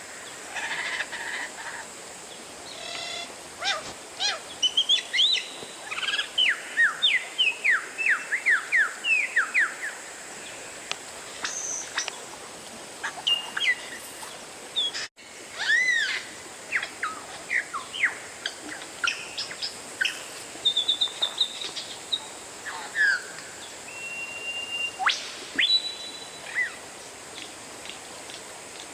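Oriental magpie-robin (kacer) singing a varied song: loud whistles, quick downward-sweeping notes in rapid runs, and a few held whistles, over a steady background hiss. The song breaks off for an instant about halfway through.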